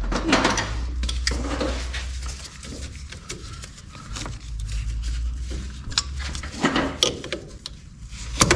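Hand tools and metal parts clinking and knocking irregularly during front wheel hub work, over a steady low hum.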